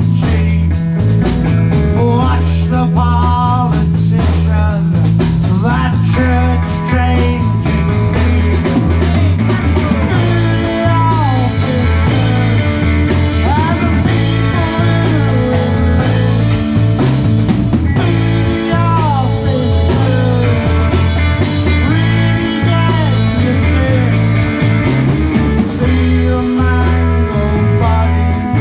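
Live rock band playing loudly, with a drum kit and bass keeping a steady pulse under a melody line of sliding, bending notes.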